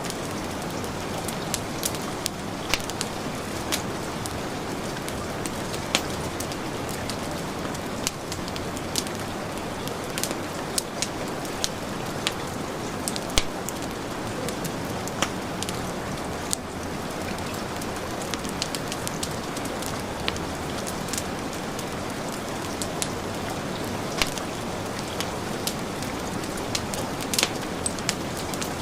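Heavy rain falling in a steady hiss, mixed with a wood fire crackling and popping in scattered sharp snaps.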